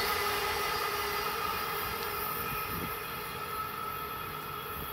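Amtrak passenger train running away into the distance, the noise of its wheels on the rails fading steadily, with a steady hum in it.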